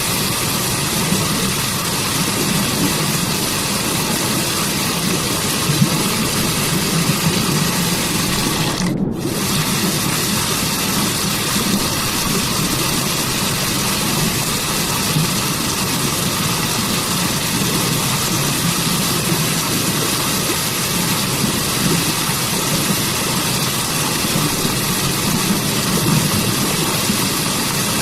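Waterfall water rushing steadily, a constant dense roar with a deep low rumble under a bright hiss. The high hiss drops out for a moment about nine seconds in.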